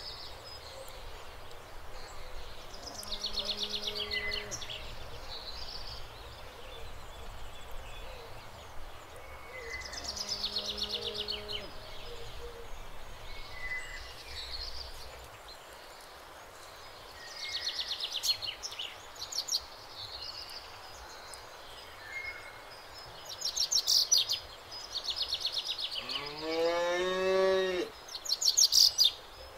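Small birds chirping and trilling in quick repeated bursts, with two faint low calls in the first half and a cow mooing once, loud and rising in pitch, about three seconds before the end.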